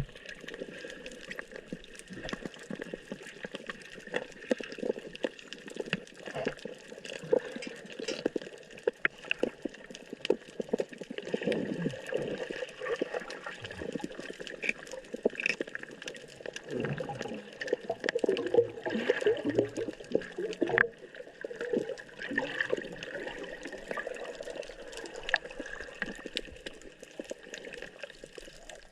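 Water sloshing and gurgling, with many irregular small crackles and clicks throughout.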